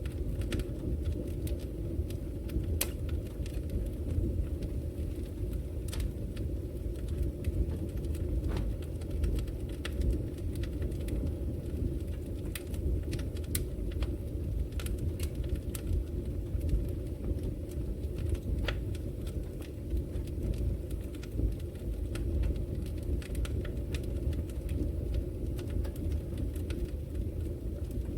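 Fire burning in a fireplace: a steady low rumble from the flames with irregular sharp crackles and pops scattered throughout.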